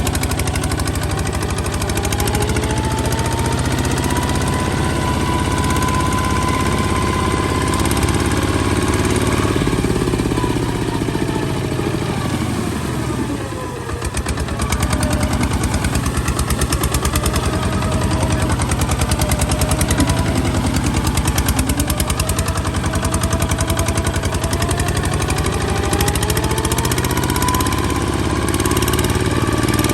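Kubota ZT155 single-cylinder diesel engine running with a fast, even knock. Roughly halfway through its speed sags and it goes briefly quieter, then it picks up again and runs on, rising once more near the end.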